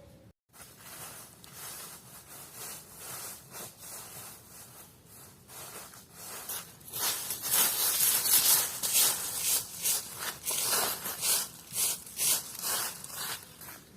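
Rasping scraping and rubbing strokes, louder and coarser from about halfway, with roughly two strokes a second near the end.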